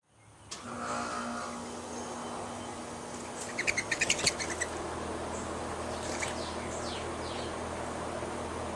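Small birds calling: a quick run of about eight loud chirps about halfway through, then a few short downward-sliding notes, over a steady background hiss.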